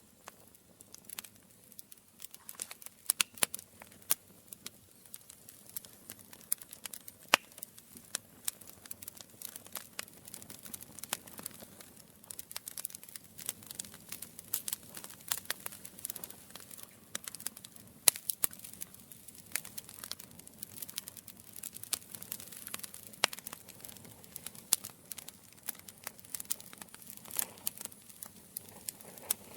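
Campfire crackling: burning wood giving off dense, irregular snaps and pops over a soft hiss, with a few louder pops now and then.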